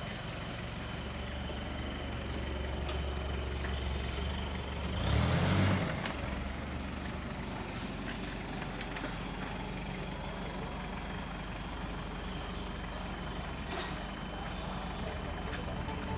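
A vehicle engine running steadily with a low rumble. About five seconds in comes a brief, louder rush of hiss.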